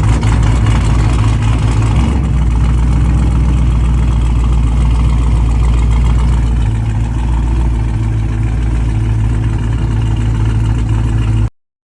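Cammed Dodge Challenger R/T's 5.7 L Hemi V8 running at a loud, choppy idle through its exhaust, the aftermarket camshaft giving it a lope. It cuts off suddenly near the end.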